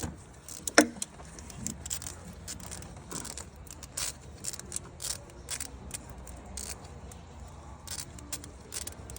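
Irregular metallic clinks and rattles from hand tools and parts being handled, with one sharper knock about a second in.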